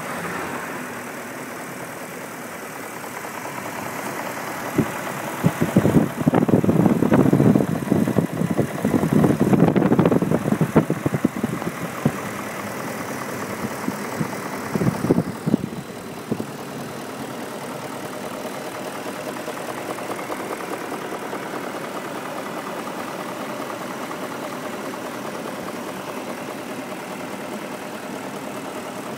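BMW M62TU 4.4-litre V8 in an E39 540i running after a timing chain replacement, checked for knocking from the engine. It idles steadily, with a louder, uneven stretch of spiky sound from about five to sixteen seconds in.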